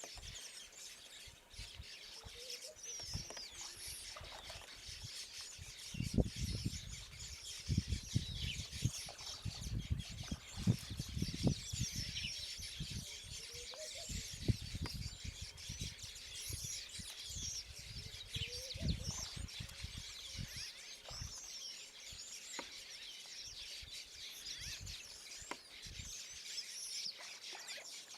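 Outdoor bird chorus: many birds chirping and calling in short high notes throughout. Irregular low thumps and rumbles come and go, heaviest in the first half.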